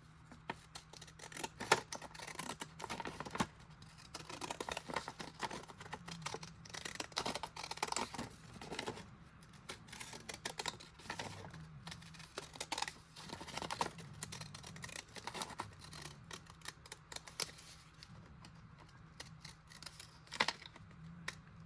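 Scissors cutting paper: a long, irregular run of short snips and clicks.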